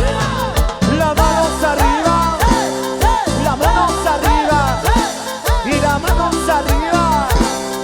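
Live cumbia band playing: a steady bass and percussion beat under a melody of repeated up-and-down sliding notes.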